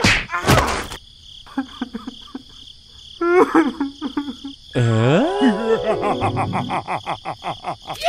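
Cartoon sound effects and squeaky gibberish character voices. A sharp rush of noise comes twice in the first second, then short chirps that slide in pitch. About five seconds in, a deep voice swoops down and back up, followed by a fast run of clicks, about six a second.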